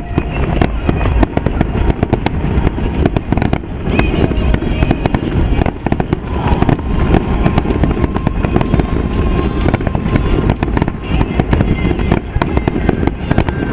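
Fireworks display: aerial shells bursting and crackling in quick, irregular succession over a continuous low rumble. Music and voices sound in the background.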